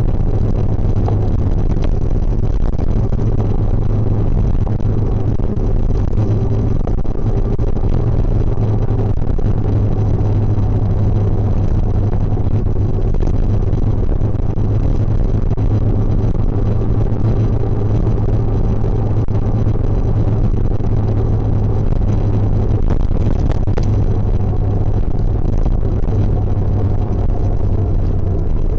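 Suzuki GSX650F motorcycle's inline-four engine running at a steady, even pace with no gear changes or revving.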